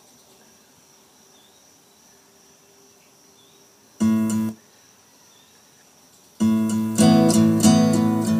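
Faint quiet ambience with a steady high tone and a few small chirps. About four seconds in, one acoustic guitar chord rings for half a second and stops abruptly. From about six and a half seconds in, loud rhythmic acoustic guitar strumming.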